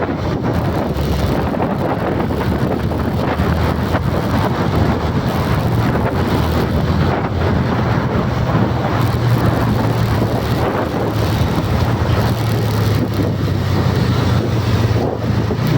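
A vehicle's engine running steadily, with wind rushing over the microphone.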